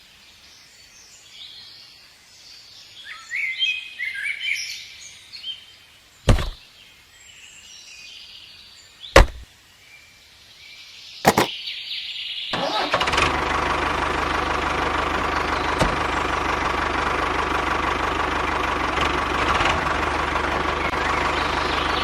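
Birds chirping faintly, with three sharp clicks a few seconds apart; then, about twelve seconds in, a small motor of a miniature construction machine starts abruptly and runs steadily.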